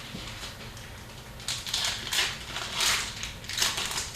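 Trading cards and pack wrappers being handled: a series of short papery rustles and crinkles, starting about one and a half seconds in.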